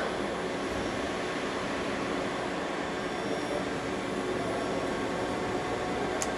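Brand 850 NE CNC surface grinder running, a steady mechanical noise with a faint high whine, and a faint tick near the end.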